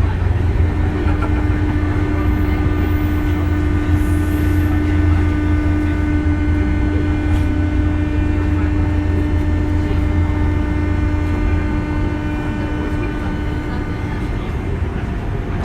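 A 201 series electric commuter train running, heard from inside the car: a steady low rumble with a fixed-pitch electrical hum and higher steady tones that stop shortly before the end, as the rumble eases.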